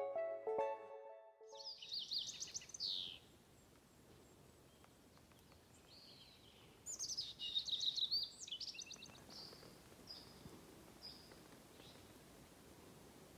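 A songbird singing outdoors: a short phrase of quick, high sweeping notes about two seconds in, a longer phrase about seven seconds in, then a few fainter notes, over a steady quiet background. Background music ends about a second in.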